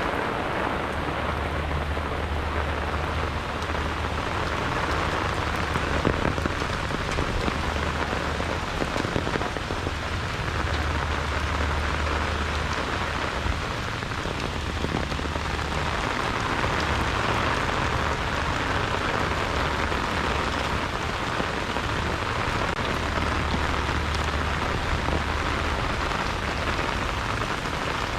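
Heavy rain falling steadily, a dense even hiss with scattered drop ticks, while gusts of wind rumble on the microphone in stretches of a few seconds.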